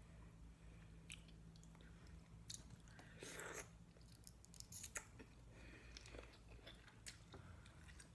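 Faint, close-miked chewing of seafood, with small scattered mouth clicks and a slightly louder noisy stretch about three seconds in.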